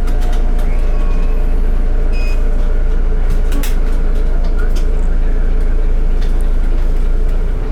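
Volvo B8RLE city bus (Volvo 8900LE body) running, heard from inside the cabin: a steady low diesel rumble with scattered rattles and clicks from the bodywork.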